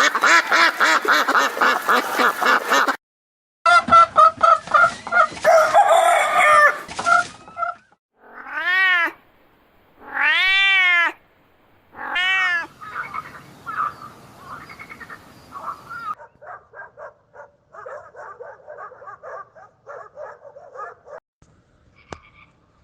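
A series of different animal calls, one after another. Rapid repeated calls come first, then three drawn-out cat meows that rise and fall, then quicker chattering calls.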